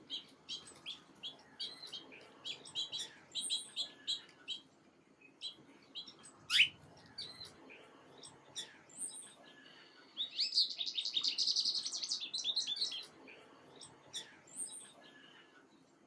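Small songbirds chirping: a run of short high chirps, a single loud rising whistle about six and a half seconds in, then a rapid trill lasting about three seconds from around ten seconds in.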